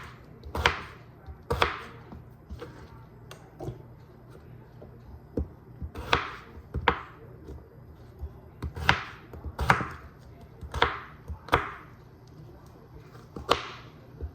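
Kitchen knife chopping potatoes into cubes on a cutting board: sharp strikes of the blade against the board at an irregular pace, about nine louder ones with pauses between them.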